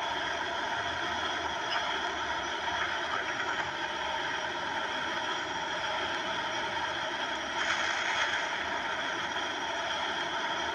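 Jet airliner engines and rushing air, a steady noise with several constant whining tones, swelling briefly about three quarters of the way through.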